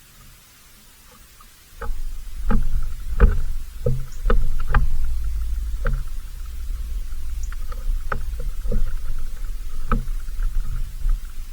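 A low rumble sets in about two seconds in, with a dozen or so sharp knocks and clicks over it, some close together.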